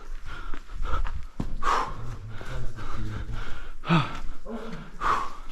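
A person breathing hard from the exertion of climbing, with several heavy exhales about a second or two apart.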